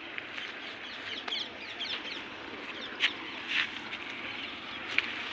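Birds chirping and calling over a steady background, with two sharp clicks, the loudest sounds, about three and five seconds in.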